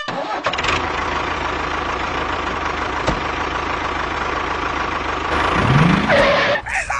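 A vehicle engine running steadily, revving up with a rising pitch near the end.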